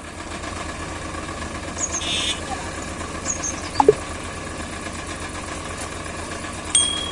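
Swaraj 742 XT tractor's diesel engine running steadily at idle, a low even rumble. A short sharp falling sound cuts in about four seconds in.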